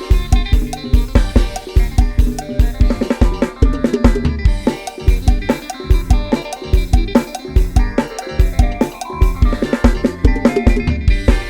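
Instrumental Isan 'lai hae' procession music played on a programmed Addictive Drums 2 virtual drum kit and a sampled bass. It has a fast, driving kick-and-snare beat under a pitched melody line.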